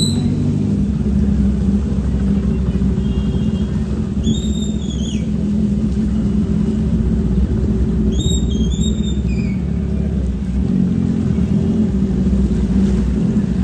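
Motorcycle engine running at a steady pace, a continuous low rumble without clear revving. Three short high chirps come through over it, at the start, about four seconds in and about eight seconds in.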